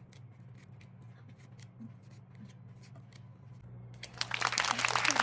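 Pokémon trading cards and their pack being handled: faint small ticks and rustles, then, near the end, a loud rapid crinkling rustle lasting about a second and a half.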